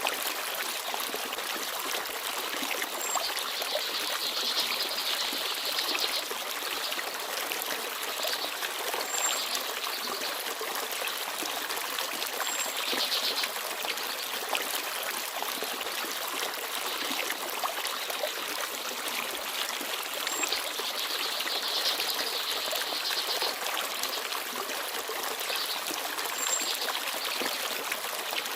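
Forest stream babbling steadily over rocks. Brief high chirps of small birds come now and then, with a few longer trills.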